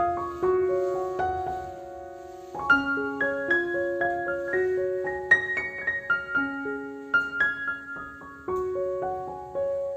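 Background solo piano music: struck notes and chords that ring and fade, with one chord held longer about two seconds in.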